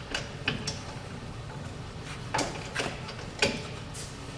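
Hand tools clinking against metal during hub bolt work: about six short, separate metallic clinks and knocks spread through the few seconds.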